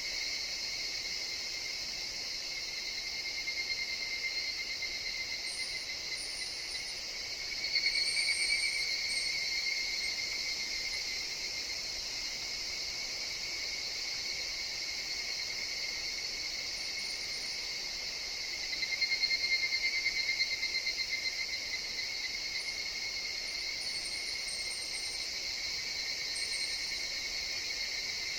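Chorus of higurashi (evening cicadas) in a forest: a steady, high ringing trill that swells as closer cicadas join in, once about 8 seconds in and again about 19 seconds in. Short high-pitched chirps come and go above it.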